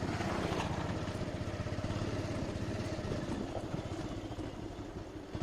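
Motorcycle engine running, a steady rapid exhaust pulse that dips briefly in level just before the end.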